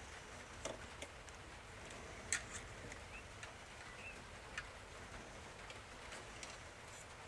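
Scattered light clicks and taps of small plastic toy parts being handled, the sharpest about two seconds in, with a couple of faint bird chirps in the background.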